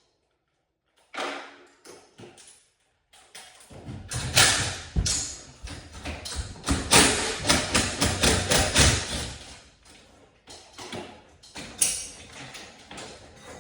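A run of sharp knocks and thumps, like tools and hardware being handled, dense and loud through the middle and thinning out toward the end.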